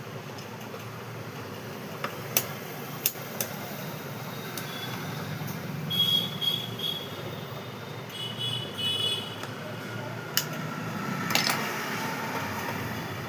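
Scattered clicks and knocks of plastic mixer-grinder parts being handled and fitted together, with a few brief high squeaks around the middle.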